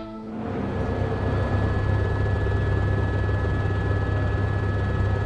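Steady outdoor ambience of a Formula One circuit before the race start, a low steady hum under an even wash of background noise, swelling up over the first second.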